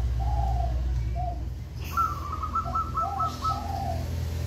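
Spotted dove cooing its repeated phrase, a short note followed by a longer rolling coo, heard twice. About two seconds in, a second bird gives a quick run of about eight higher notes. A steady low hum sits underneath.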